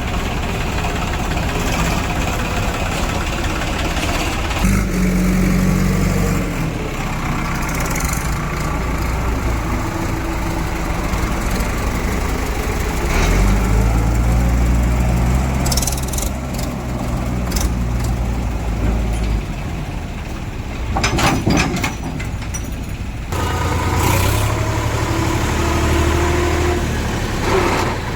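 Heavy diesel engines running, the engine note changing several times as they work under load, with a few sharp knocks about three quarters of the way through.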